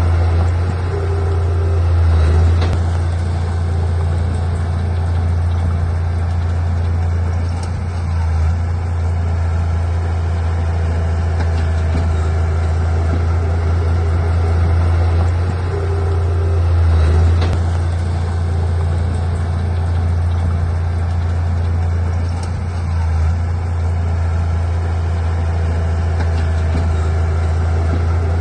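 Heavy diesel earthmoving machinery running steadily with a deep, low engine drone and little change in level.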